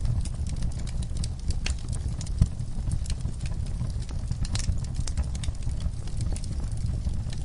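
Wood fire in an outdoor fire pit crackling, with irregular sharp pops and snaps over a steady low rumble; the loudest pop comes about two and a half seconds in.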